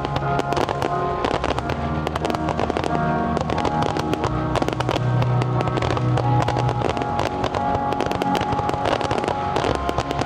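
Fireworks going off in quick, irregular bangs and crackles over loud orchestral-style music from a pyromusical show's soundtrack.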